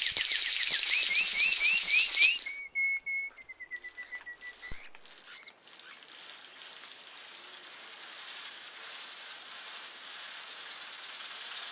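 A bird calling a fast series of high, rising chirps for about two seconds, then a held whistled note that slowly drops in pitch. After that comes a steady high hiss of background ambience.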